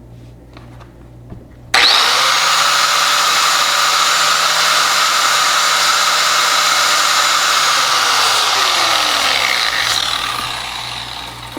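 A small high-speed power tool motor switched on about two seconds in, whining up to speed and running steadily for several seconds, then winding down with a falling pitch near the end. It is being used to strip the sticky adhesive foam off the plastic GoPro mount.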